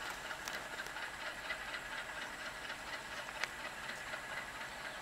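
Distant passenger train hauled by twin ALCO WDM-3A diesel locomotives running slowly on a curve: a steady hiss of running noise with scattered faint clicks.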